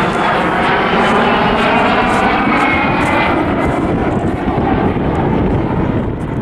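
Vintage military jet aircraft flying past, a steady jet engine noise with a whine that falls in pitch as the aircraft goes by.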